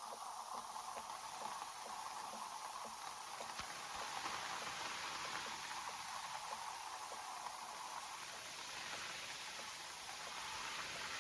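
Rain falling on banana leaves: a steady hiss with individual drops ticking throughout.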